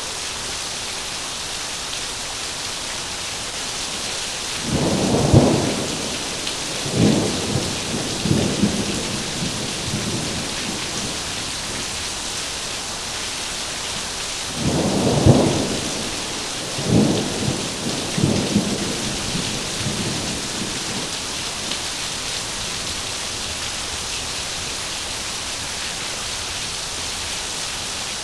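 Heavy rain falling steadily, with two rolls of thunder about ten seconds apart. Each starts with a loud low rumble and comes back in two or three weaker waves over the next few seconds.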